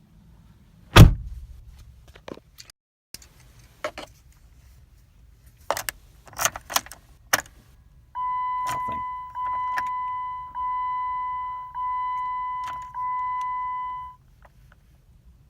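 A loud thump about a second in, then keys jangling and clicking, then a car's warning chime sounding five times in a row, each a steady tone about a second long. The chime comes with the electrics still live after the key is out, on a car that will not start.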